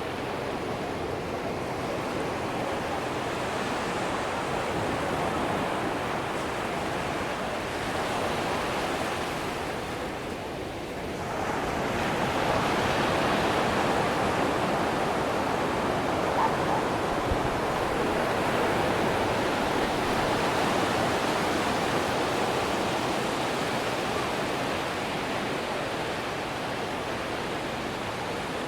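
Atlantic Ocean surf on a sandy beach: waves breaking and washing up as a steady rushing noise, which dips briefly about ten seconds in and then swells louder as the next wave comes in.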